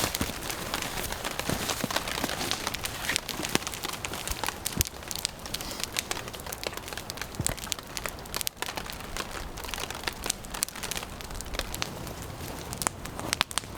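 Steady rain pattering with many sharp crackles and pops from a wood campfire.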